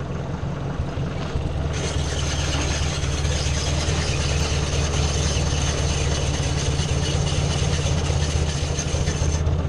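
Ford 600 tractor's engine running steadily at low speed while the tractor creeps forward. A higher hiss with a thin whistling tone joins about two seconds in and stops near the end.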